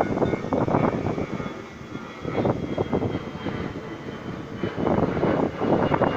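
R46 subway train running on the tracks: uneven rumbling surges of wheel and rail noise, with a faint high whine over it.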